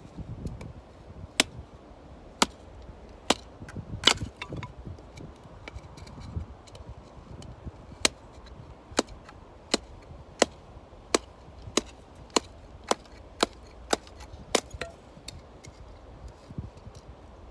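Firewood being chopped: a string of sharp wooden knocks, scattered at first, then settling into a steady pace of about one to two a second before stopping near the end.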